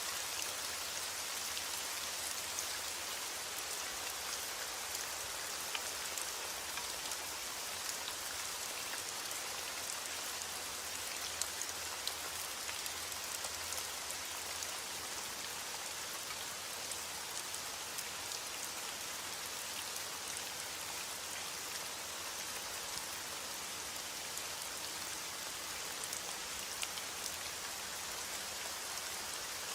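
Steady heavy rain falling, an even hiss with many individual drops ticking sharply on a surface.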